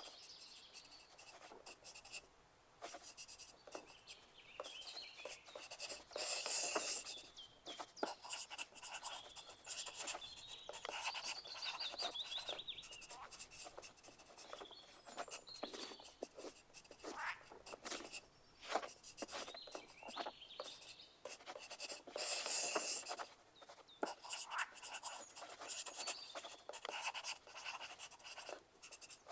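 Pencil writing on paper: continuous irregular scratching and tapping strokes, louder in two stretches about six seconds in and near twenty-two seconds in. Faint bird chirps sit in the background.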